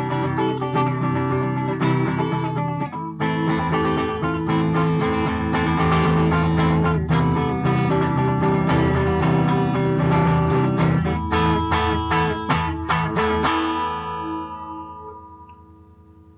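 Guitar strumming chords without singing, as an instrumental outro; the last chord rings out and fades away about fourteen seconds in.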